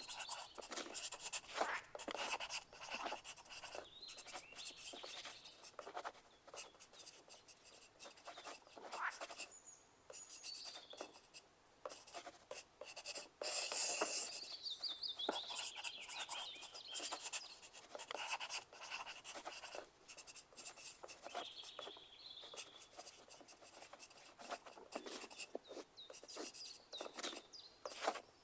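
Pencil writing on paper: irregular scratching strokes with short pauses between them.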